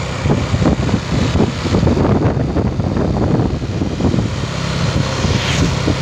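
Vehicle engine running steadily with a low drone, overlaid by frequent rattles and knocks, and a brief squeak near the end.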